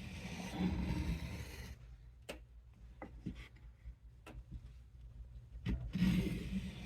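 A knife blade scraping across an oiled soft Arkansas sharpening stone in long strokes: one stroke at the start and another near the end, with a few light clicks of the blade against the stone between them.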